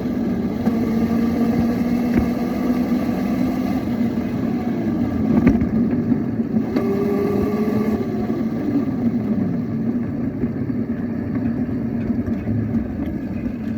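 Small motorbike engine running steadily, with a sharp knock about five seconds in.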